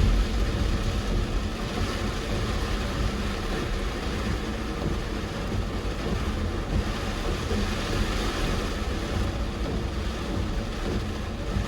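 Steady rushing noise with wind buffeting on the microphone, a low fluttering rumble under an even hiss.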